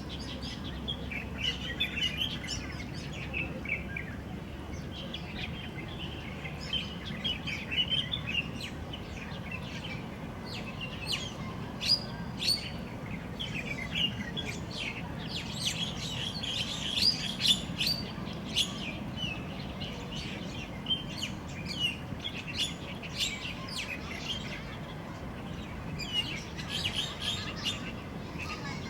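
Birds chirping and calling in a busy run of short, overlapping notes, over a steady low background noise.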